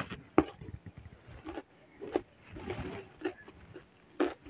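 A person chewing food close to the microphone: short wet mouth clicks and soft crunches, the sharpest about half a second in, then more every second or so.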